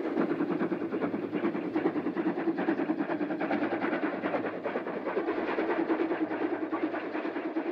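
Freight train passing close by: a steady rumble with a dense clatter of wheels over the rails. The sound is an effect dubbed onto silent film, not the filmed locomotive itself.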